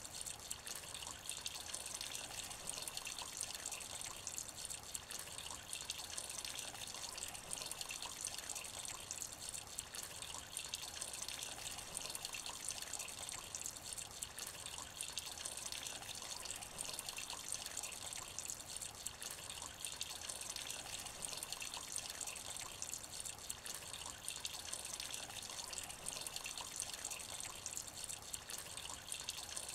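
Light rain falling into a shallow puddle: a steady, even hiss made of many small drops splashing on the water.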